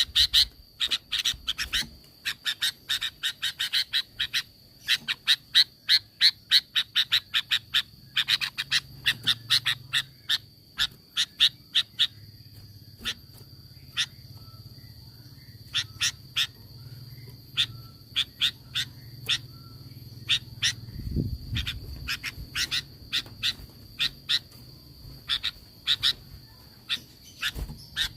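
Sooty-headed bulbul (kutilang) calling in rapid volleys of short, sharp notes, several runs with brief pauses between, over a steady high ringing tone.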